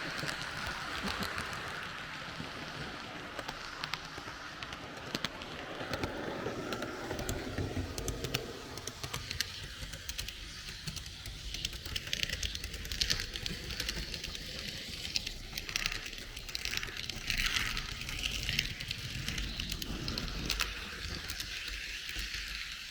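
H0 scale model train rolling along the track, a steady running rattle with many small sharp clicks from the wheels on the rails.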